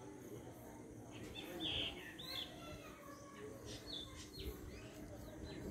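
Small birds chirping and calling in short, high notes, the loudest burst about one and a half to two seconds in and more scattered calls in the second half, over faint low background noise.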